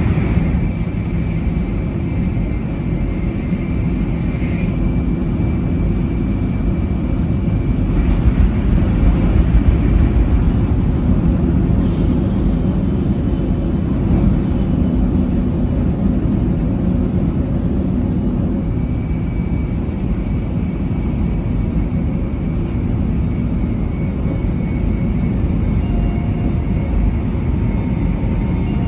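700 series Shinkansen running at speed: a steady deep rumble with a faint high whine over it, growing a little louder about eight seconds in.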